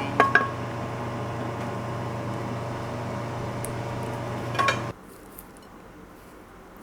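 Utensils clinking against a dish while braised potatoes are spooned on top. There are a few sharp clinks with a short ring near the start and another cluster just before five seconds, over a steady hum that cuts off suddenly about five seconds in.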